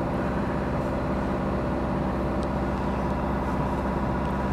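A car engine idling steadily, a constant low hum.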